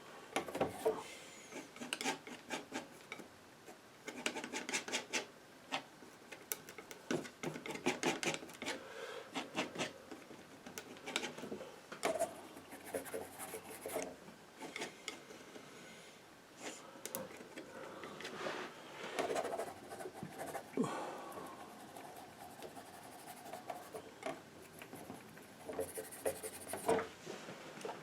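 Painting knife scraping and dabbing oil paint on a painting surface, in clusters of short irregular strokes with brief pauses.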